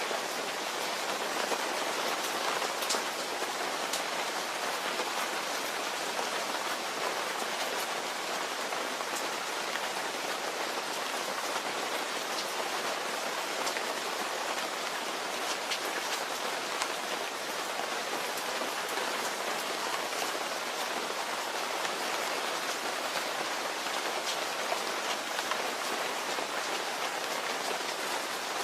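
Steady rain falling and pattering on a surface, with scattered sharper drop ticks over an even hiss.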